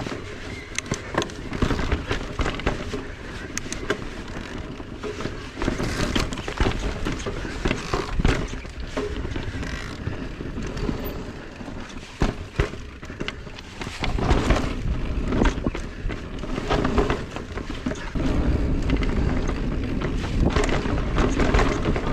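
Mountain e-bike being ridden: wind rumbling on the microphone with frequent knocks and rattles from the bike over rough ground, getting louder about two thirds of the way through.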